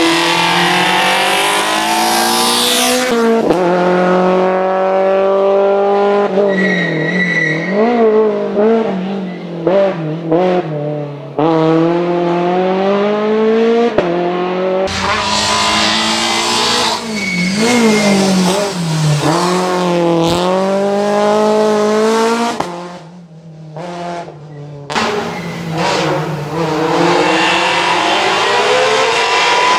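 Citroën C2 racing car's four-cylinder petrol engine revved hard, its pitch climbing and falling again and again through quick gear changes and lifts of the throttle, with short tyre squeals in the turns. The engine goes quieter for a moment about 23 seconds in.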